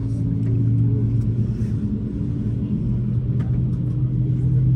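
Airbus A320 engines heard from inside the passenger cabin: a steady low hum over a deep rumble. The engine tone steps slightly higher about three seconds in.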